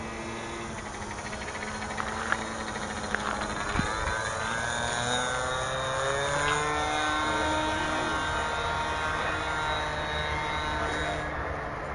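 Radio-controlled model aircraft's motor running in flight, its pitch rising and falling as the throttle changes.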